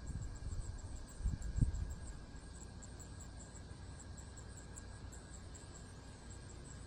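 Insects chirping in a fast, even string of high-pitched pulses, with low bumps and rumble on the microphone during the first two seconds.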